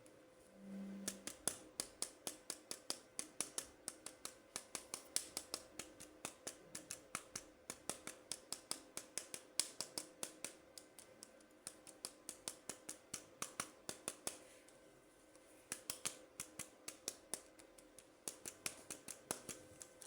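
Rapid series of sharp clicks, about three to four a second, with a short pause about three quarters of the way through.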